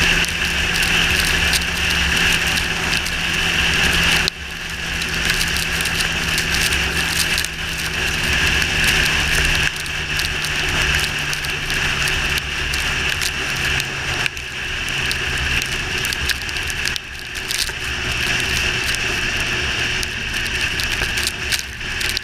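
Yamaha R6 inline-four sportbike being ridden on wet roads: a steady engine drone under wind and wet-road noise, dipping briefly three times.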